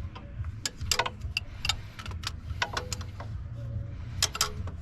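Irregular sharp metallic clicks and taps of hand tools and parts being worked loose in a diesel engine bay, over a low steady hum.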